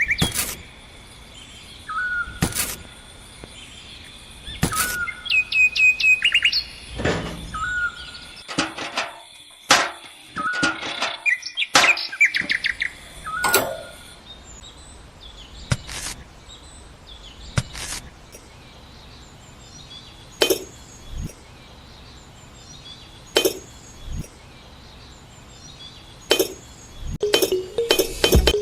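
Small birds chirping in short repeated calls, mostly in the first half, over sharp intermittent clicks and knocks.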